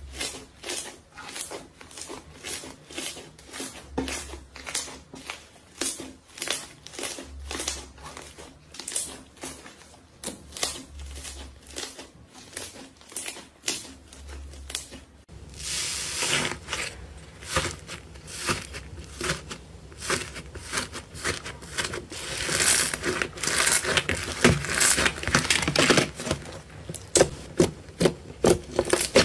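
Slime being squished and poked by hand close to the microphone: a steady run of sharp sticky clicks and pops, about three a second, then from about halfway a denser, louder crunching.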